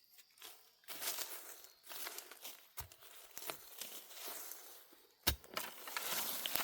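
Dry plant material rustling, crackling and tearing, handled or trodden, with a couple of dull knocks.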